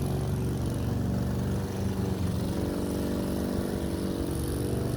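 Petrol lawn mower engine running steadily, its pitch wavering slightly as it works.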